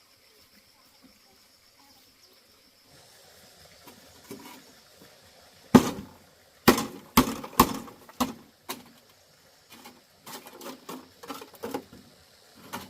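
An irregular series of sharp knocks and impacts that begins about six seconds in and comes faster near the end. A faint, steady high whine sits behind them.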